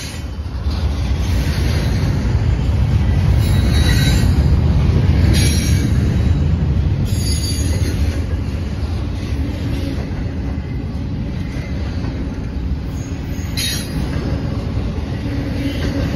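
Freight cars of a Norfolk Southern manifest train rolling past close by: a steady heavy rumble of wheels on rail, loudest a few seconds in, with short high-pitched squeals from the wheels several times.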